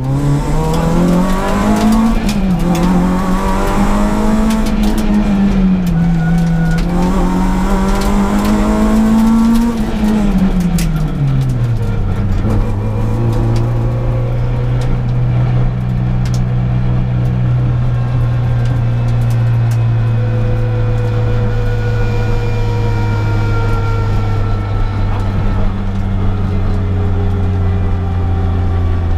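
Peugeot 106 S16 rally car's 1.6-litre 16-valve four-cylinder engine, heard from inside the cabin. Over the first ten seconds the revs climb and drop several times, then they fall and hold at a steady lower note for the rest.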